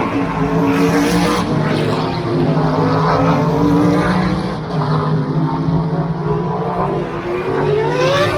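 Several race car engines running at speed on a track, their notes overlapping and shifting in pitch as they pass, with one engine rising in pitch near the end.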